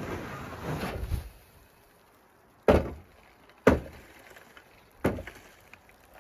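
A rough scraping rustle for about a second, then three sharp knocks spaced a second or so apart.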